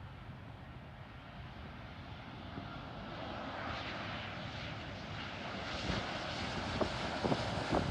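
Jet airliner on landing approach, its engine noise swelling steadily louder from about three seconds in, with a few short thumps near the end.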